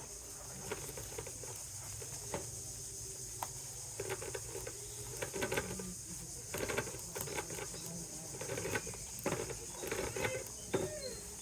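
Dry grass or straw rustling and crackling as it is handled and woven by hand, in irregular clicks and short rustles, over a steady high hiss.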